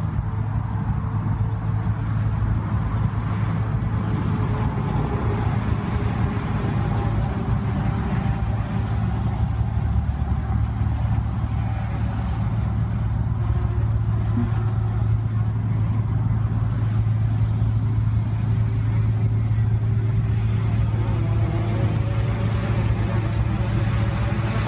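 Quadcopter flying, its propellers humming with a pitch that shifts up and down as the motors change speed, more plainly near the end, over a steady low rumble.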